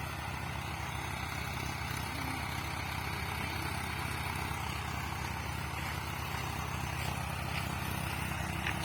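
Tractor engine running steadily with an even, low chugging rhythm.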